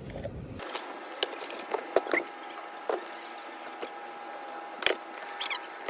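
Scattered light clicks and knocks, one or two a second, over a steady hum.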